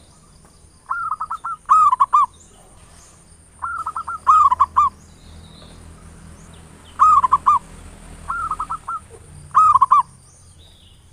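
Zebra dove (local perkutut) singing its rolling cooing phrase, a quick run of short notes ending in a longer coo, repeated every two to three seconds.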